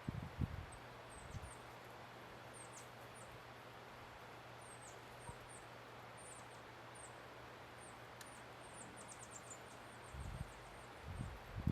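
Small songbirds at the feeders giving short, high, downward-sliding chip calls again and again, with a quick run of chips a little before the end. Low thumps come at the start and again in the last couple of seconds.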